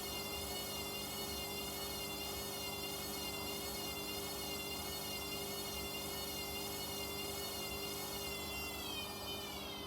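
Washing machine in a high-speed spin: the drum motor gives a high whine whose pitch wavers up and down. About nine seconds in, the pitch starts to fall as the spin begins to slow down, over a steady low hum.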